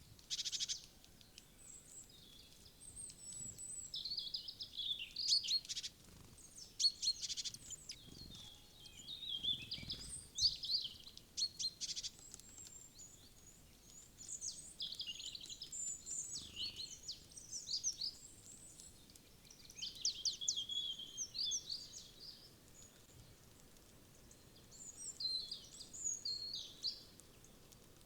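Wild songbirds chirping and calling in many short, high-pitched bursts and trills, with a few short clicks among them.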